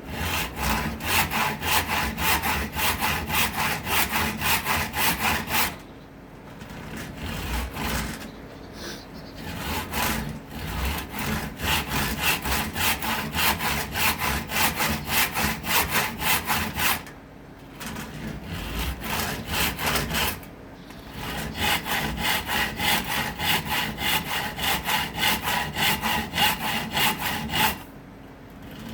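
Hand saw cutting through acacia wood in quick back-and-forth strokes, about two to three a second, stopping briefly a few times between runs.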